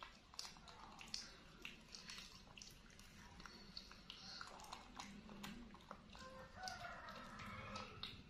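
Quiet eating sounds: scattered small clicks and mouth smacks from a baby monkey and a toddler chewing fried cheese sticks, with a brief high-pitched vocal sound near the end.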